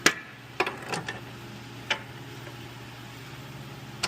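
Sharp metallic clicks and clinks, about six over four seconds, from a pry bar and tools working on the lower control arm bolt to line it up straight. A steady low hum runs underneath.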